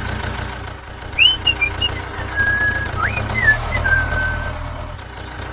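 A low steady motor hum, with a string of short whistled notes over it, some sliding up or down and a couple held briefly, from about a second in to past the middle.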